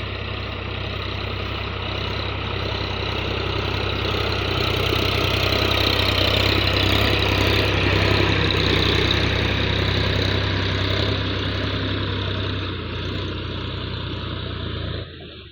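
Solis 4215 tractor's diesel engine running steadily, growing louder toward the middle and easing a little before dropping off abruptly near the end.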